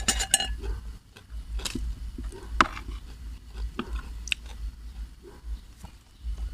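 Close-miked eating sounds: a person chewing and biting into spicy seafood papaya salad with rice noodles, with scattered wet smacks and sharp clicks at irregular intervals.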